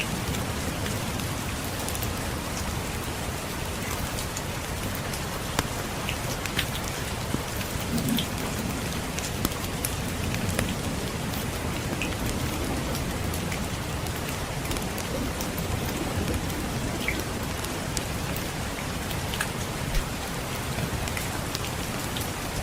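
Steady rain with scattered sharp pops from a crackling wood fire, over a low rumble of distant thunder.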